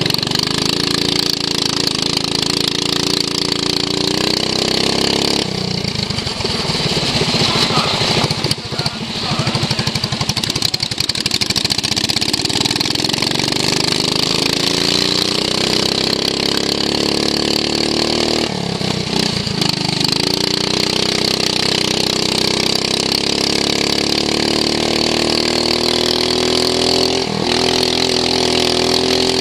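Racing lawn mower engine heard onboard under race load. Its pitch climbs steadily as it accelerates, drops sharply as the throttle is lifted about five seconds in and again near twenty seconds, then climbs again.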